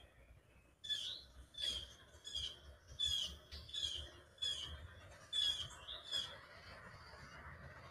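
A bird calling repeatedly with short, sharp, slightly falling call notes, about one and a half a second, stopping about six seconds in.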